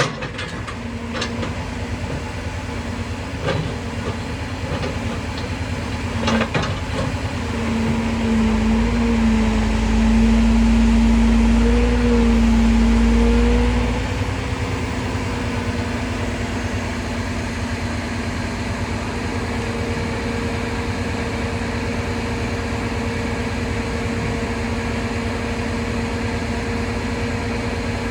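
Crane truck's engine running steadily. For several seconds about a third of the way in it grows louder, with a slight rise in pitch, then drops back to a steady run. A few light knocks come in the first seven seconds.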